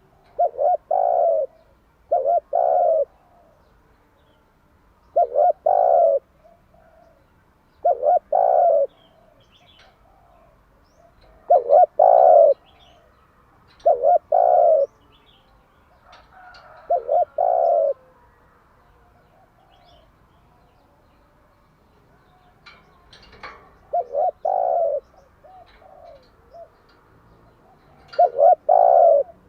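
Spotted dove cooing its morning song: short, low, repeated coo phrases about every three seconds, with a longer pause past the middle. Faint chirps from small birds can be heard in the background.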